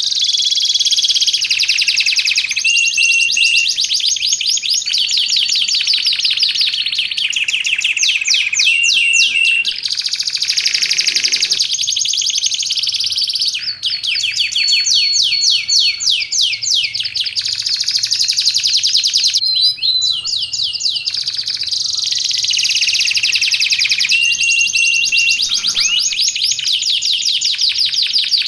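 Domestic canary singing a long, unbroken song of rapid trills, each run of quickly repeated notes giving way to another at a different pitch, with a few held whistled notes mixed in.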